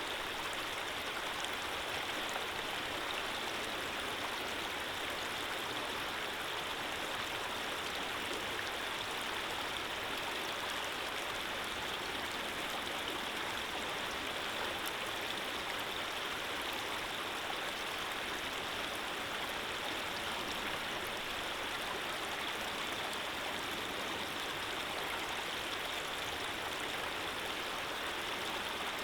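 Running water: a steady, even rush of flowing water with no change in level.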